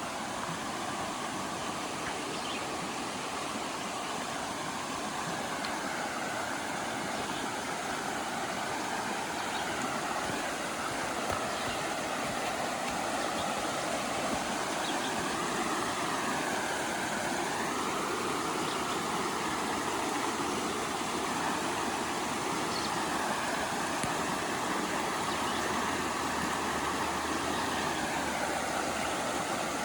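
River water rushing steadily alongside the trail, its hiss wavering in pitch now and then. A faint low hum comes in over the last few seconds.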